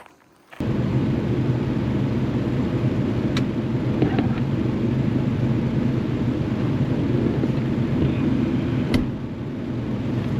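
Efurden 4000-watt portable gas inverter generator running steadily with a loud, even hum, cutting in abruptly about half a second in. A couple of faint clicks sit on top of it.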